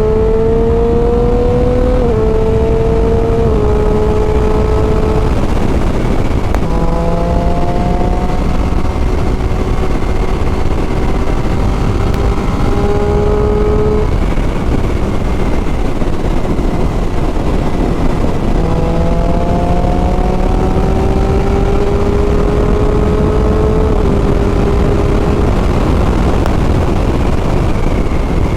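Triumph Street Triple 675 three-cylinder engine with a loud exhaust accelerating hard: the pitch climbs in three runs, dipping slightly at each quick-shifted upshift, with the engine fading under wind noise for a few seconds in the middle. Heavy wind buffets the microphone.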